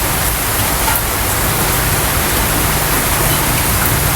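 Steady rush of a rainstorm, rain and wind noise together, with no pauses.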